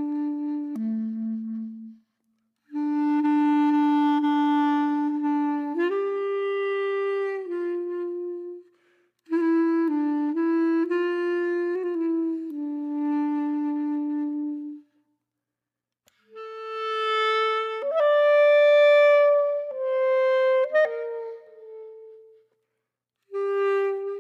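Background music: a slow solo woodwind melody of long held notes in phrases, with short silences between them.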